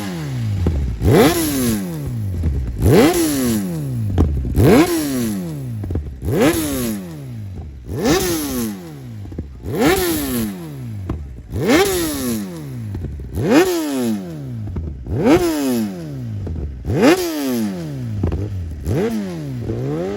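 A motorcycle engine being revved over and over, about once every 1.7 seconds. Each rev jumps up sharply and then falls away slowly as the engine winds back down.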